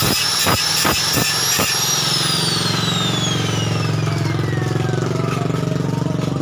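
High whine of an electric motor, with a regular knocking about three times a second at first. About two seconds in, the whine glides steadily down in pitch as the motor coasts down after being switched off. A low engine-like hum continues underneath.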